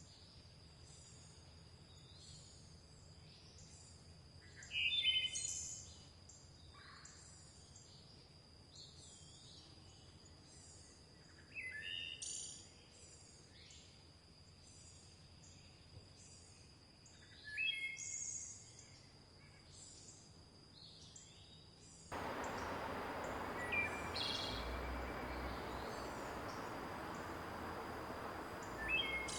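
Forest birds singing: one bird repeats a loud short phrase about every six seconds, with softer chirps and a steady high-pitched tone behind it. About twenty-two seconds in, a steady rushing of river water cuts in suddenly and runs on under the birdsong.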